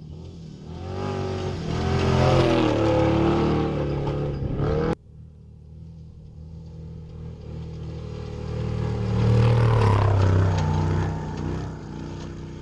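Off-road race truck engines at speed: a truck accelerates hard past the microphone, its pitch climbing, then after a sudden cut a second truck approaches, is loudest about ten seconds in, and fades away.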